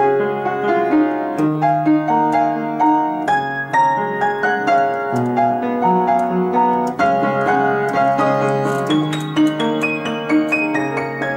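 Solo piano playing a melody of several notes a second over held lower notes, without a break.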